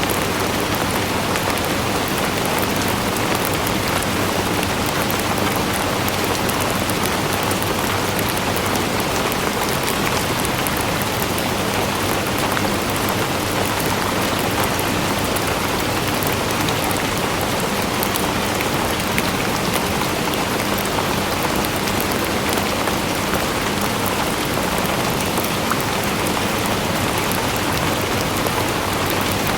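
Steady rain falling on a surface, an even hiss with many fine drop patters, unchanging throughout.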